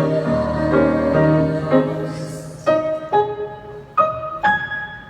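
Piano playing the closing bars of a hymn accompaniment: held chords, then four single notes struck one after another, each left to ring and fade.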